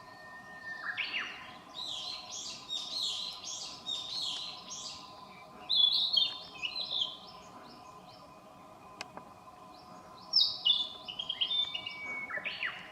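A songbird singing in several bursts of quick, high, warbled phrases that tumble downward, with pauses between the bursts.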